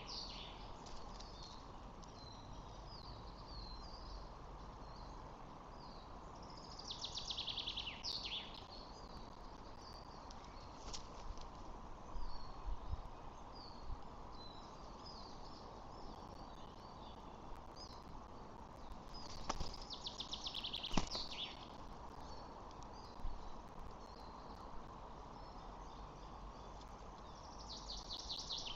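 Birds calling outdoors over a steady background hiss: small scattered high chirps throughout, and three bursts of rapid high chattering calls, about seven seconds in, around twenty seconds in and at the very end.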